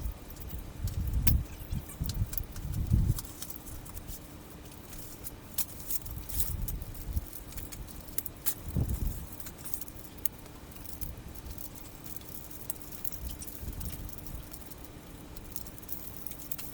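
Metal tools and engine parts clinking and clattering as they are handled, with a few heavier knocks and a steady low hum underneath.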